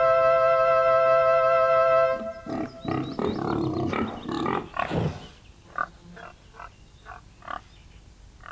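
A held musical chord ends about two seconds in. Pigs grunting follow, loud at first, then fainter short grunts.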